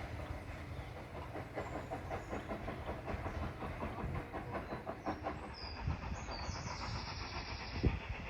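Train running on the line, with a steady low rumble and a run of rapid clicking from the wheels over the rail joints; from about five and a half seconds a hiss joins in for roughly two seconds.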